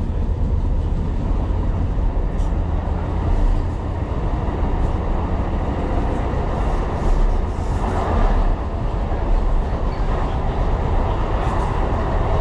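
Tyne and Wear Metro train running along the line, a steady low rumble of wheels on rail with a few faint clicks.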